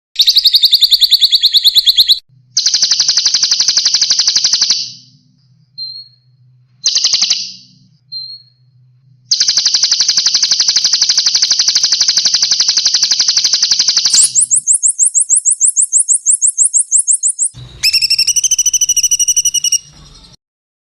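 Songbird calls played one after another: loud, high trills of rapidly and evenly repeated notes, each running a few seconds and starting and stopping abruptly. The longest trill lasts about five seconds. Toward the end comes a higher, faster trill, followed by a burst of rapid, rougher notes.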